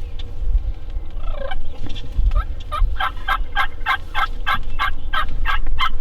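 Turkey yelping: a single rising note, then from about two seconds in a run of about a dozen evenly spaced yelps at roughly four a second. A low rumble runs underneath.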